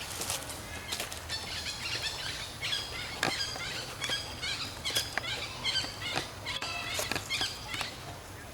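Many short, high-pitched chirps repeating irregularly, with scattered sharp clicks and rustles, over steady outdoor background noise.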